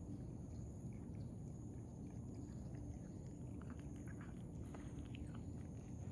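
Stray cats chewing wet cat food: faint, irregular small clicks and smacks over a steady low background rumble.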